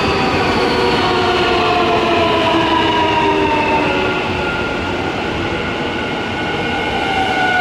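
Nankai electric train at the platform, its motors whining in several tones that fall slowly in pitch over a steady running rumble.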